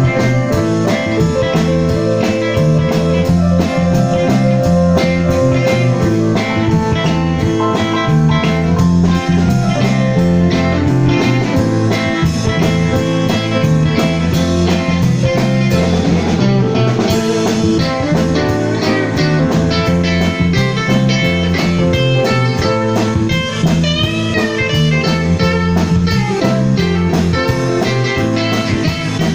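Blues music played on guitar, with a steady beat.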